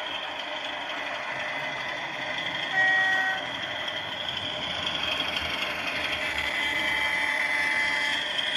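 DCC sound-fitted model diesel locomotive: the sound decoder's diesel engine running steadily through the model's small speaker, with one short horn toot about three seconds in. The engine sound grows a little louder in the second half.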